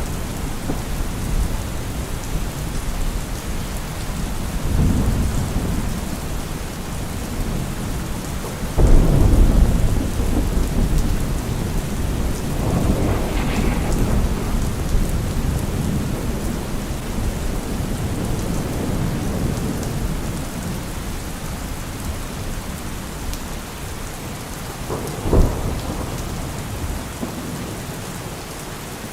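Steady rain with thunder: low rumbles roll in several times, the loudest starting about nine seconds in and lasting a few seconds, and a short sharp clap comes near the end.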